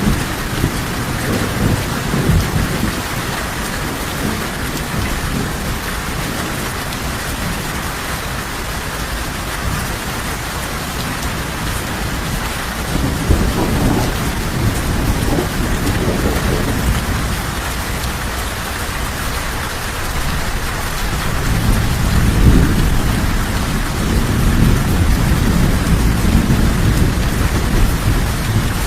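Steady rain falling, with low, rolling thunder that swells near the start, again about halfway, and through most of the last third.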